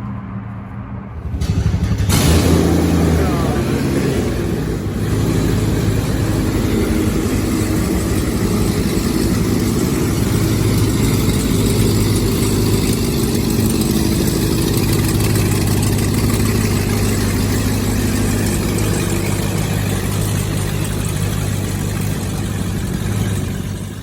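Lifted pickup truck's engine is started about two seconds in and then runs steadily and loudly with its exhaust headers off.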